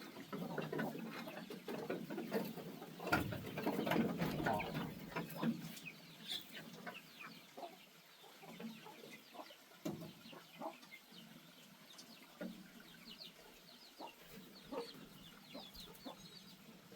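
Chickens clucking around a farmyard, with scattered short knocks and rustling, louder in the first few seconds.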